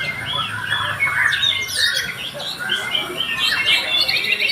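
Many songbirds chirping and calling at once, short trills and squawks overlapping continuously.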